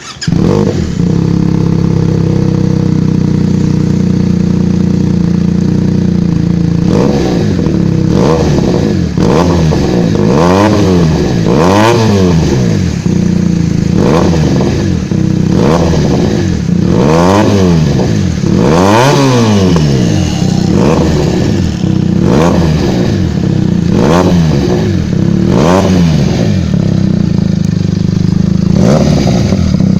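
Benelli TNT300's 300 cc parallel-twin engine through an aftermarket Proformance exhaust system. It comes in suddenly at a steady fast idle, then from about seven seconds in is revved in many quick throttle blips, each rising and falling in pitch.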